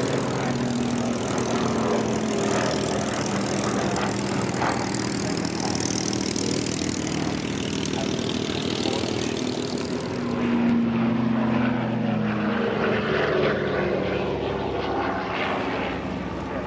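Propeller-driven piston aircraft engine flying over in a steady drone, its pitch sliding slowly. It grows a little louder about eleven seconds in.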